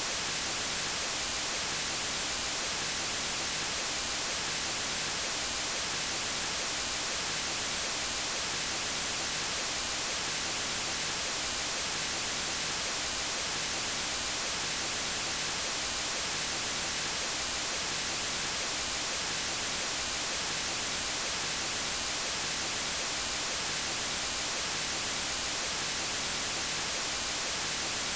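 Steady synthetic white noise: an even hiss across all pitches, brightest in the treble, with no changes or events.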